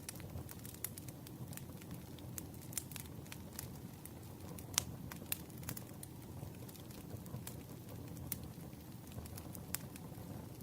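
Campfire crackling: a wood fire burning with a steady low rush and irregular sharp pops and snaps, the loudest snap about five seconds in.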